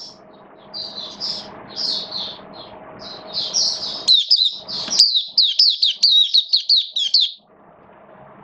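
White-eye (mata puteh) singing a rapid, varied chirping song that ends in a fast run of sharp down-slurred notes, about five a second, before stopping near the end.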